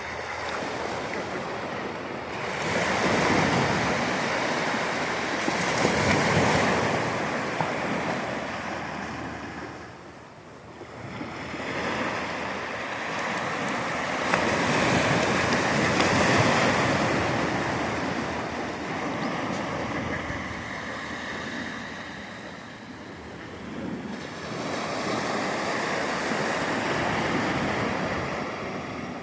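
Sea surf: waves breaking on the shore and washing back. The rushing noise swells loud and eases off roughly every ten seconds.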